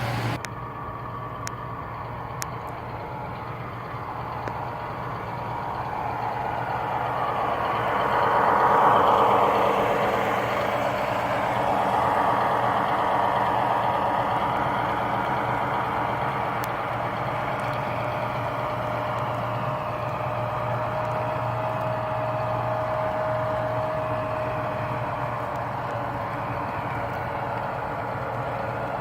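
An O-scale model diesel locomotive running on the layout, its sound system playing a diesel engine. It swells to its loudest about eight or nine seconds in as it passes close, then runs on steadily.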